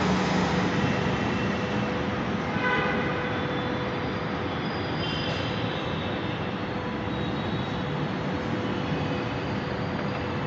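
A train running nearby: a steady rumble with a hum, and a short higher tone about two and a half seconds in.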